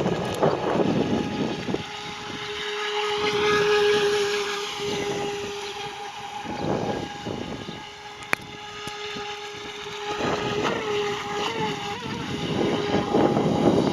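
Homemade radio-controlled electric jet boat's 3900kv brushless motor and jet drive whining at a steady pitch as it runs on the water, growing louder and fading as the boat moves past. Short bursts of rushing noise cut across it several times, and a single sharp click comes about eight seconds in.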